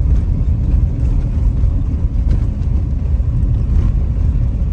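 Steady low rumble of a moving car heard from inside: road, engine and wind noise.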